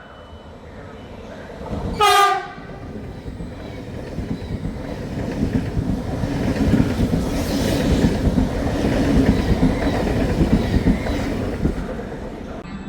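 A passing train gives one short horn blast about two seconds in, then goes by with a rumble and wheel clatter that swells to a peak and eases off near the end.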